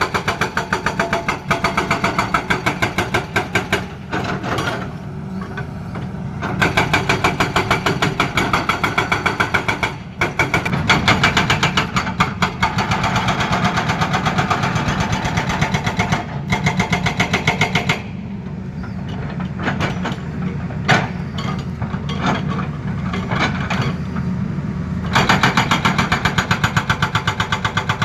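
Hydraulic breaker on a Tata Hitachi excavator hammering rapidly and evenly over the excavator's running diesel engine. The hammering stops twice, briefly about four seconds in and for several seconds from about eighteen seconds, leaving the engine running on its own, then starts again.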